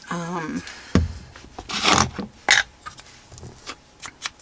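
Paper being handled on a craft desk: rubbing and scraping strokes with a few light clicks, as small cut paper chips are worked. A short hummed voice sound comes at the very start.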